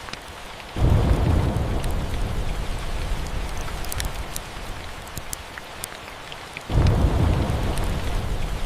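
Steady rain with two rolls of thunder, one breaking suddenly about a second in and another near the end, each rumbling deep and fading over several seconds. Scattered small crackles from a fireplace sit over the rain.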